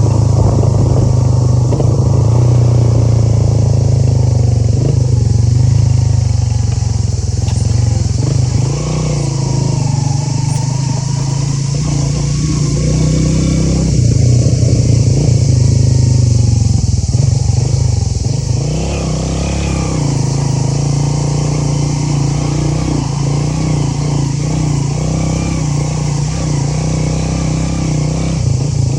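Motorcycle engine running under way, with its pitch easing off and picking up again a couple of times, over a steady hiss.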